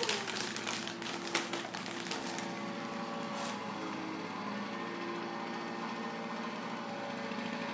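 A quick run of light clicks and clatters over the first two seconds or so, then a steady low mechanical hum with a few held tones.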